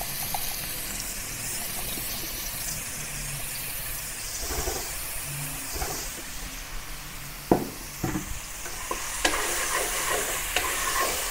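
Minced garlic and shallot sizzling steadily in hot oil in a wok. A wooden spatula stirs them, scraping and knocking against the pan several times in the second half.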